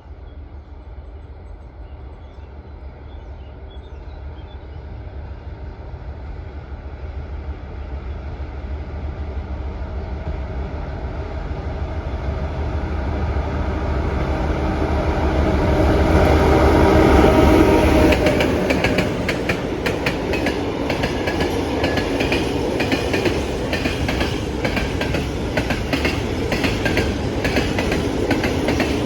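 A train approaching and passing close by. The locomotive grows steadily louder and passes about 17 seconds in, then the wagons' wheels click rhythmically over the rail joints.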